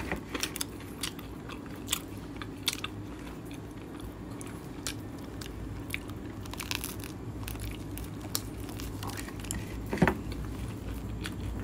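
A person chewing a crusty bánh mì baguette sandwich close to the microphone, the crisp crust giving off scattered small crunches and crackles, with one louder click near the end.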